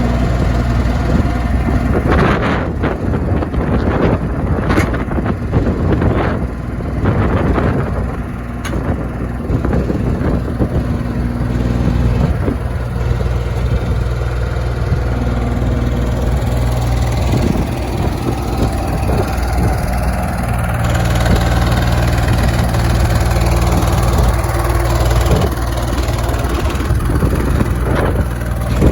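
New Holland TC33D compact diesel tractor engine running steadily, its note changing a few times. A run of knocks and rattles comes in over the first several seconds.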